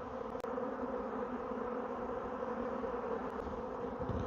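A swarm of honeybees buzzing in a steady, unbroken hum.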